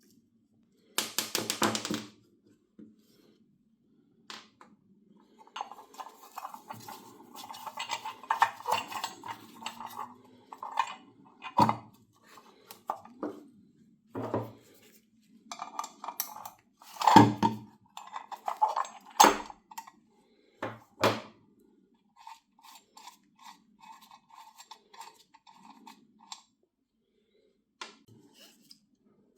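Small metal parts of an old hand coffee grinder clinking and knocking as they are handled. It opens with a short rattle about a second in, followed by irregular knocks and ringing clinks, and faint light ticking near the end.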